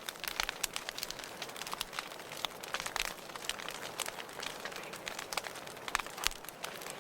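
Wood fire in a fireplace crackling, with frequent sharp, irregular pops over a steady low hiss of burning.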